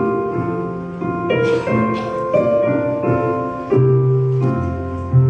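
Piano or keyboard playing sustained chords, the instrumental introduction to a choir anthem, with deep bass notes entering in the last second or so.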